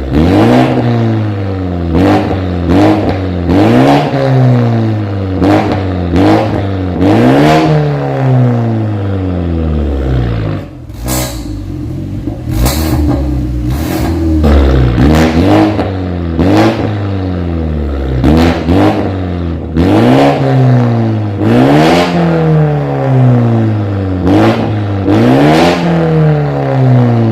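BMW 430i's B48 turbocharged four-cylinder engine, fitted with a full-system aftermarket valved exhaust, revved again and again in quick blips, each one rising and falling back in about a second. About ten seconds in it settles briefly to a steady lower note with two sharp cracks, then the quick revving resumes.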